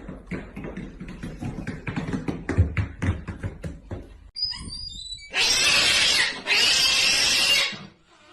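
An animal giving two loud, harsh cries of about a second each in the second half, after a run of quick tapping and clicking and a few short high squeaks.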